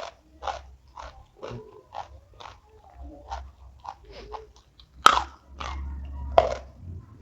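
Close-miked chewing of crunchy food, a steady rhythm of about two crunches a second, with two louder bites about five seconds in and a second and a half later.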